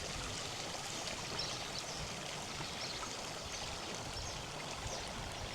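A river flowing over stones, a steady rush of water, with faint short bird chirps above it.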